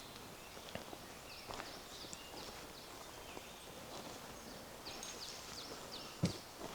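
Many small songbirds chirping and calling in woodland, with the walker's footsteps thudding on the forest path; one louder footfall or knock comes near the end.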